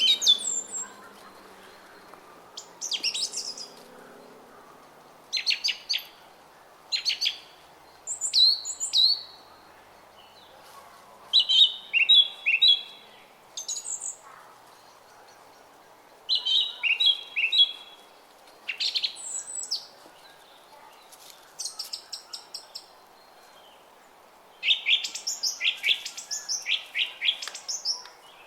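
Small songbirds chirping and singing in short, quick phrases and trills, a new phrase every second or two, over the steady babble of a brook.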